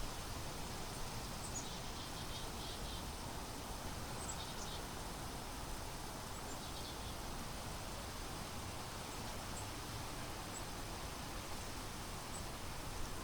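Steady wind rushing, with low buffeting on the microphone. Faint short bird chirps and trills come through a few times.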